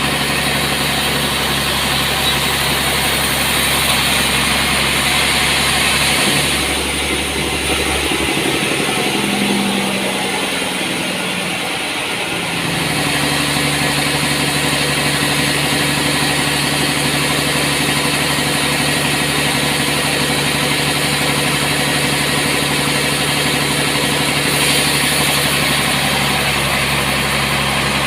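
Sawmill machinery running with a steady engine-like drone and hiss. Between about 7 and 12 seconds in the low drone drops away and the pitch wavers, then it settles into a new steady running speed.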